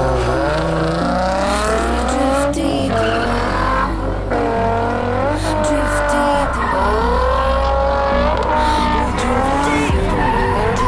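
Nissan 350Z's V6 engine revving hard as the car drifts, its pitch climbing and dropping back about five times, with tire squeal.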